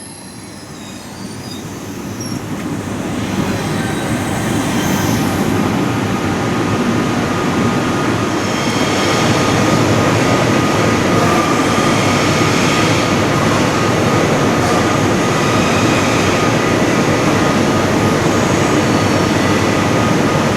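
SBB RABe 503 (ETR 610) electric tilting train rolling along the station tracks, with a steady rumble and a thin, high wheel squeal. It grows louder over the first nine seconds or so, then holds steady.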